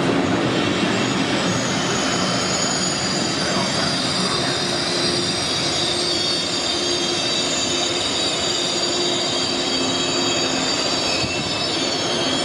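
Train running through the station, a steady rumble with a high-pitched metallic squeal of steel wheels on the rails.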